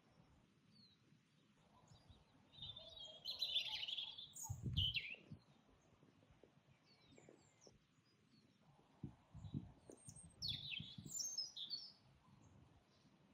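Songbirds singing in two bursts of quick, high chirps, one a few seconds in and another past the middle, over faint outdoor background noise with a few low rumbles.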